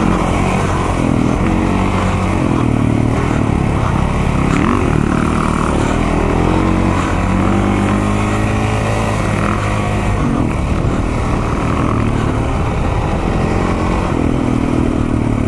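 Single-cylinder KTM off-road motorcycle engine running while riding a dirt trail, its revs rising and falling with the throttle.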